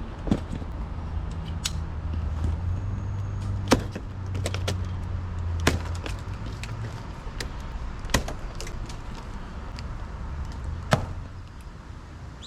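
A boxed fridge's packaging being opened: a series of sharp snaps and knocks, five louder ones a few seconds apart, over a low steady rumble.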